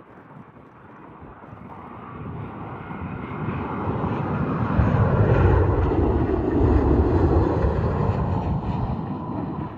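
Jet engines of a QantasLink Airbus A320 on final approach, growing steadily louder as it comes in low. The sound is loudest from about five to eight seconds in, a deep rumble under a hissing roar, and begins to fade near the end.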